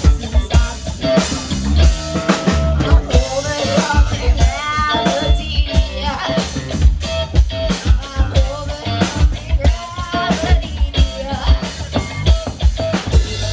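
Rock band playing, with a drum kit keeping a steady beat under guitar.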